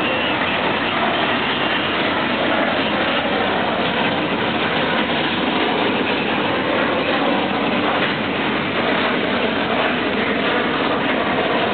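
Steady, unbroken vehicle noise at a constant loud level.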